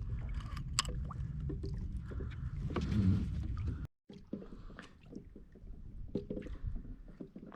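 Water sloshing and gurgling around a fishing kayak, with scattered small knocks and clicks. About four seconds in the sound cuts out abruptly and goes on quieter.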